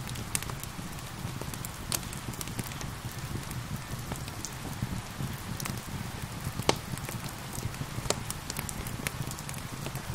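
Steady rain mixed with a wood fire crackling, its sharp pops and snaps scattered irregularly through the hiss of the rain.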